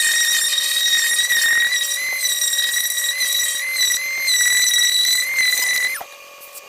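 Electric drill spinning a 500-grit sanding pad, wet-sanding a plastic headlight lens: a steady high-pitched whine that wavers a little under load, then cuts off suddenly about six seconds in.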